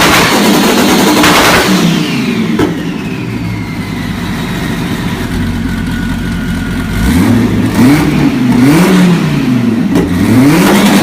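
Twin-turbocharged car engine revving high, then falling away about two seconds in to a lower, quieter running note. From about seven seconds in it is blipped up and down several times in quick succession, with a couple of sharp cracks.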